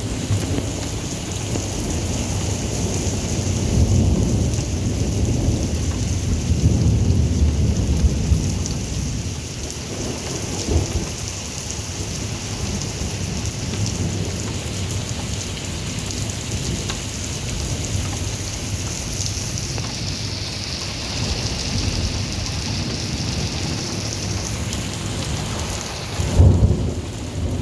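Thunderstorm: steady rain with rolling thunder that rumbles heavily early on, a short crack about eleven seconds in, and a loud thunderclap near the end.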